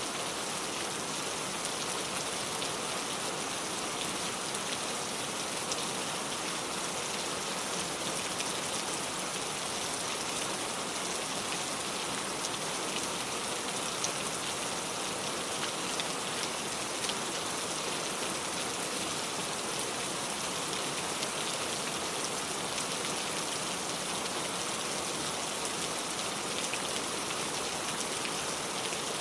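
Steady rain falling: an even hiss with scattered small drop ticks and no thunder.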